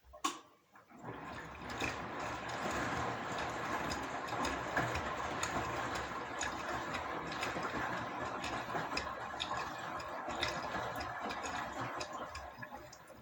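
Washing machine drum turning through one stretch of a wash, running steadily for about twelve seconds with many ticks and clicks, then fading out near the end. A single sharp click comes just before it starts.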